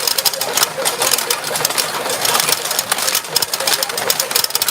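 Retro pachinko machine in play: a dense, fast, continuous clatter of steel balls striking the pins and rattling through the machine.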